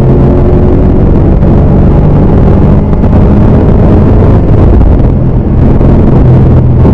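BMW E39 M5's V8 engine running at speed, heard from inside the cabin. The engine note holds fairly steady over heavy road and wind noise.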